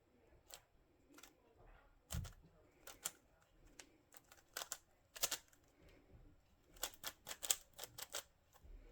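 Plastic twisty puzzle being turned by hand: irregular sharp clicks of its layers snapping round. The clicks come in quick runs about halfway through and again a little before the end.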